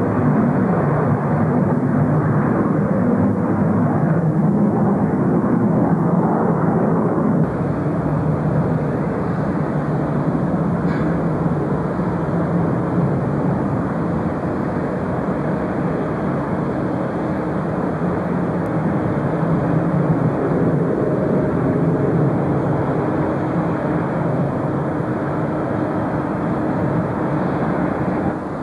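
Jet airliner engines running steadily: a continuous noise with a faint low hum in it, dropping a step in level about seven seconds in.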